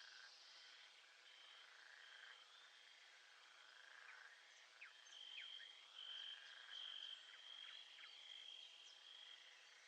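Faint nature soundscape of a frog and insect chorus: a high trill that comes and goes in stretches, with a run of quick chirps about halfway through.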